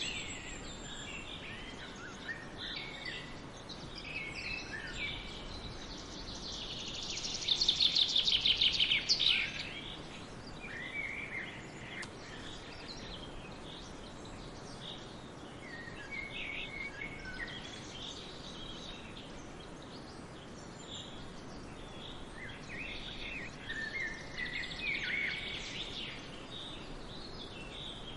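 Songbirds singing and calling in a forest, with short chirps and phrases scattered throughout over a faint, steady background hiss. The loudest is a fast, rapidly repeated trill about seven seconds in that lasts around two seconds.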